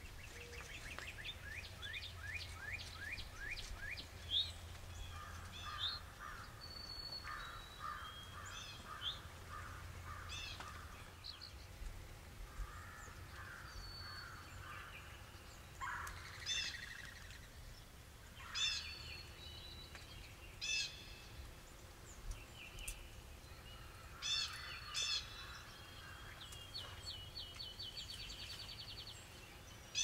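Mixed wild bird calls: quick high chirps, whistles and a trill near the end, with several runs of lower, harsher repeated notes.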